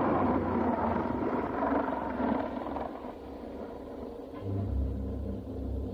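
A loud, deep rumble that fades away over the first few seconds, then a lower, steady rumble sets in about four and a half seconds in.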